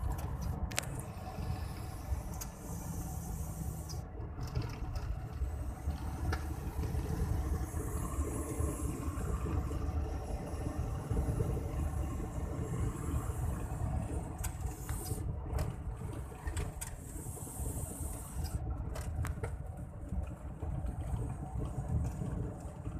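Mitsubishi Fuso truck's turbo diesel engine running under way, a steady engine drone with a faint high whistle that rises and then falls over several seconds in the middle.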